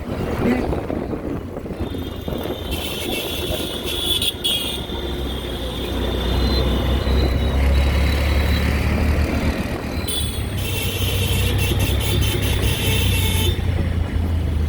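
Motor vehicle engine running steadily in traffic, with horns sounding a few seconds in and again for several seconds near the end.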